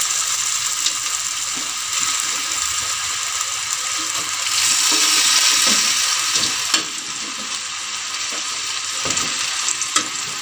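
Par-boiled chicken pieces sizzling in a wok in fried spice paste and sweet soy sauce: a steady frying hiss that swells a little in the middle, with occasional clinks and scrapes of a metal spatula against the wok.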